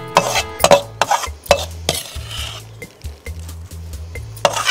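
A metal spoon scraping and knocking against the inside of a metal kadhai, scooping out roasted wheat flour, in a string of sharp clinks with a longer scrape about two seconds in.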